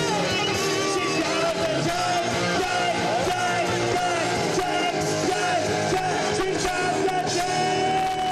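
Live rock band playing loud, with guitar and a voice; a long held note runs through the second half and slides down at the end.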